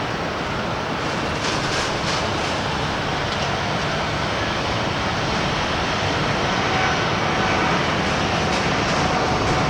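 Jet airliner engines at takeoff thrust: a steady, loud noise that grows slightly louder, with a faint engine whine coming in about two-thirds of the way through. Strong wind buffets the microphone.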